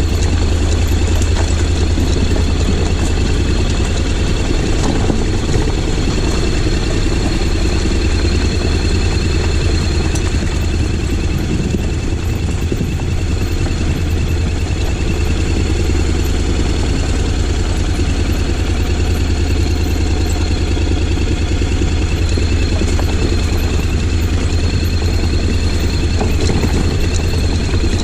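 Honda X-ADV 750's parallel-twin engine running steadily, with no revving.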